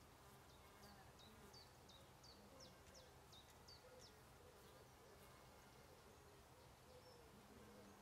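Quiet countryside ambience: a small bird gives a quick run of about nine short, high, falling chirps in the first half, over a faint wavering buzz and a low steady hum.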